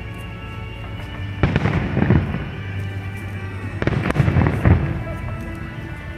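Aerial fireworks bursting in two volleys of bangs and crackle, one about a second and a half in and another about four seconds in, over background music.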